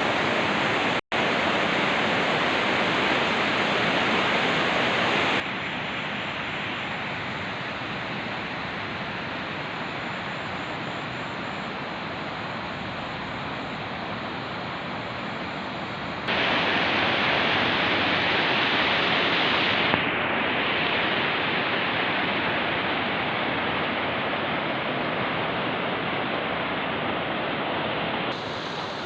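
Rushing river water: a steady, loud roar of fast-flowing water that jumps abruptly in level several times, with a brief dropout about a second in.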